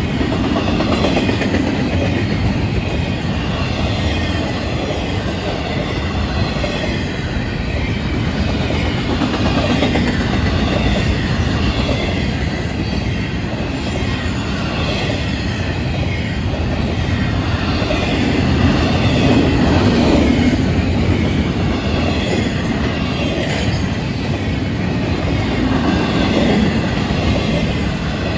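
Freight train's double-stack intermodal container cars rolling past: a steady rumble and clatter of wheels on the rails, with wheel squeal.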